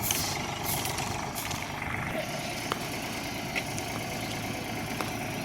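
Eicher 485 tractor's diesel engine running steadily, with a few sharp clicks over it.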